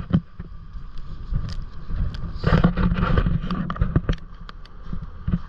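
Strong wind rumbling on the microphone, with a louder rushing gust about two and a half seconds in and scattered short clicks and knocks.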